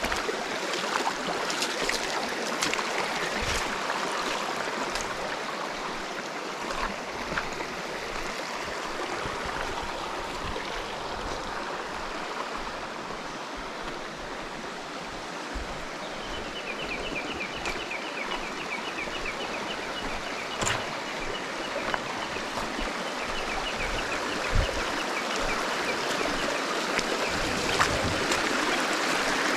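Small mountain stream running over rocks, a steady rush of water. About halfway through, a faint rapid high-pitched ticking trill joins it for about ten seconds.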